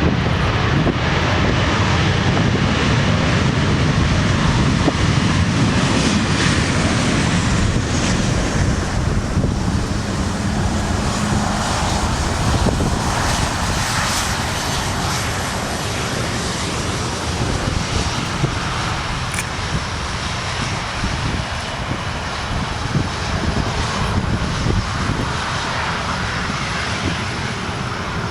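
Aircraft engines running loud and steady, then slowly easing off as the aircraft moves away.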